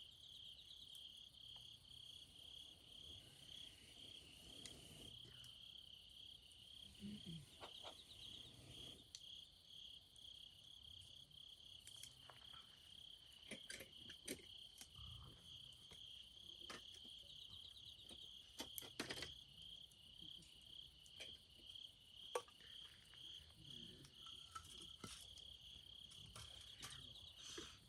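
Insects chirping in a steady, evenly pulsing high trill, with scattered sharp clicks and pops over it.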